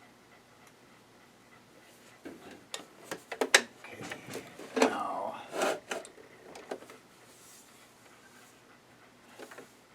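Plastic parts of a sewing machine being handled and fitted: a run of sharp clicks, knocks and rattles starting about two seconds in and dying away a few seconds later, with a few light clicks near the end.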